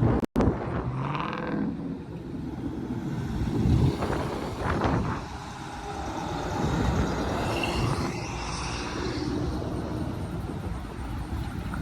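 Car engines running, with cars moving past; a low rumble that swells and fades a few times.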